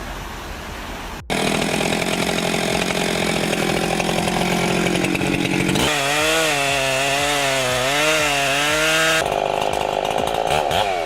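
A steady vehicle hum cuts off about a second in. It gives way to a loud chainsaw running at full throttle and cutting wood, its engine pitch wavering up and down as the chain loads and frees in the cut.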